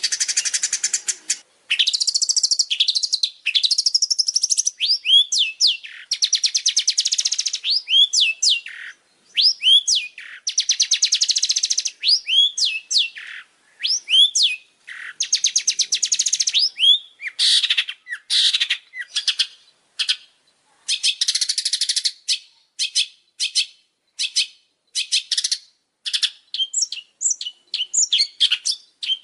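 Songbird singing long runs of rapid, buzzy trills broken by sharp, upward-sweeping whistled notes, in bursts with short gaps. The phrases grow shorter and more clipped in the second half.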